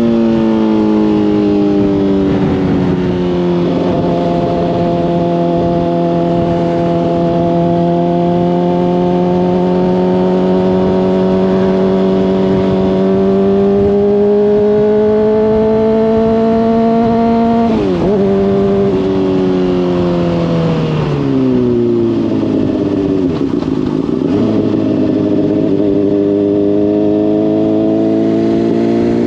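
Honda CBR600RR inline-four with a slip-on exhaust. Its note eases off at first, then holds steady at cruise and slowly climbs. A quick gear change comes about eighteen seconds in, then the revs fall to a low, steady note before rising again near the end as the bike pulls away.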